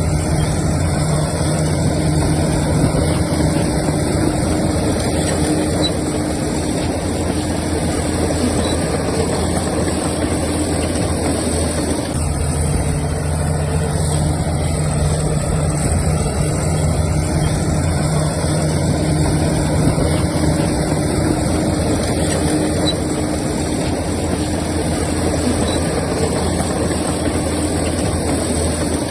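Heavy diesel engine of earthmoving equipment running steadily, its note changing about twelve seconds in.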